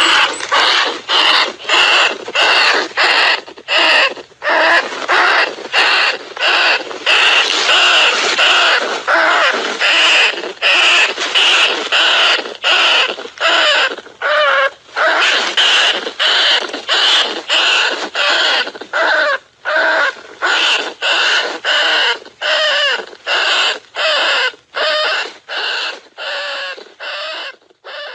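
Mouse squeaks, a rapid series of short high calls repeating about twice a second, cutting off near the end.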